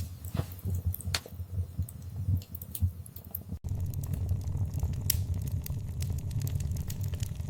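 Wood fire in a fireplace crackling, with sharp pops over a low rumble. About halfway through the sound breaks off for an instant, and the crackling then runs denser over a steadier rumble.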